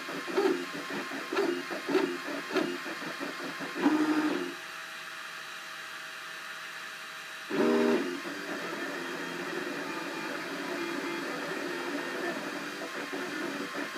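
Cubify 3D printer's stepper motors whirring and singing as the print head makes moves: short pitched runs, a louder move about four seconds in, a lull with a faint steady hum, another loud move about halfway, then a steadier, softer string of motor tones.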